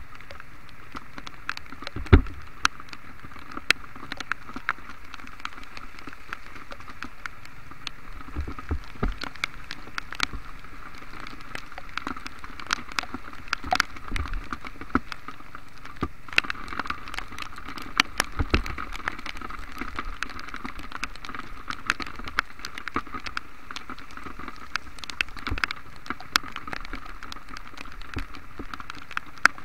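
Heavy rain falling: a steady hiss with many sharp taps of drops landing close by, a few of them heavier thuds.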